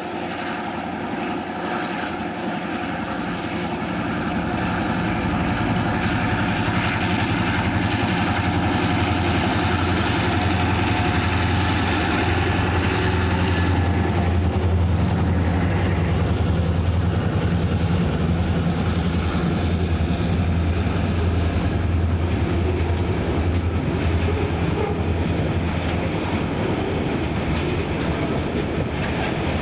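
Two diesel locomotives hauling a freight train of loaded coal hopper wagons, passing close by. A steady low engine drone grows over the first few seconds and is loudest as the locomotives go by, then the wagons roll past with wheels clattering over the rails.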